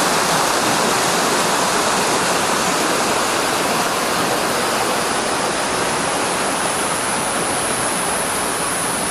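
Mountain creek water rushing steadily over rocks, a loud, even rush like a small cascade.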